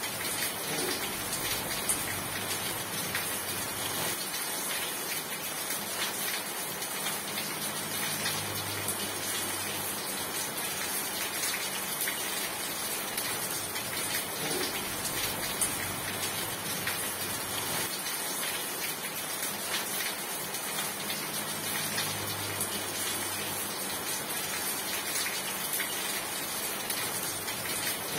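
Steady, dense rainfall with many individual drops ticking through it.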